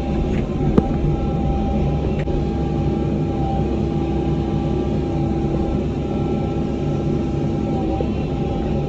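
Cat 305 mini excavator's diesel engine running steadily, with a steady high whine over the engine drone. A single sharp click or knock comes under a second in.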